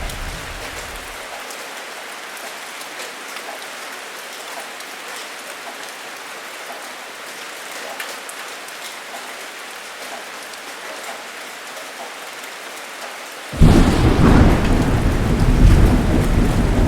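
Steady heavy rain hissing, with a low rumble of thunder dying away in the first second or so. About three seconds before the end, a loud peal of thunder breaks in suddenly and rolls on over the rain.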